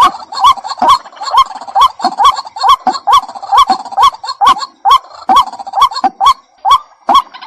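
White-breasted waterhen calling, a lure recording: a steady series of short, clipped notes with an upward hook, a little more than two a second.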